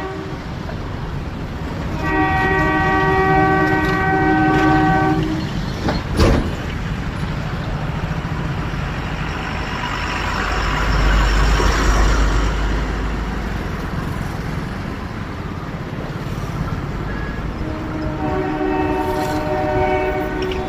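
Diesel-electric multiple unit (DEMU) train sounding its horn in a long blast for about three seconds, starting about two seconds in, and again near the end, over the steady rumble of the running train. A sharp thump sounds about six seconds in, and the rumble swells in the middle.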